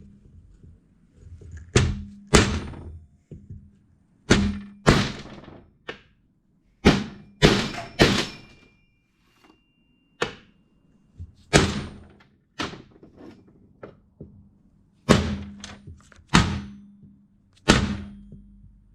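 A hammer striking a seal driver to drive a new front crank seal into a billet aluminium timing cover: about fifteen sharp metallic knocks, unevenly spaced, some in quick pairs, with pauses of one to two seconds between groups.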